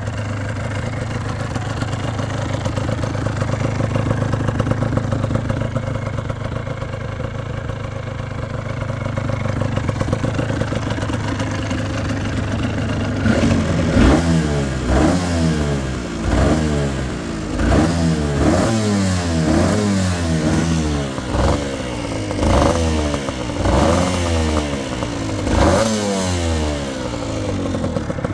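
1989 Suzuki RGV250 VJ21 Gamma's two-stroke V-twin idling steadily, then revved again and again from about halfway in, the pitch rising and falling with each blip of the throttle.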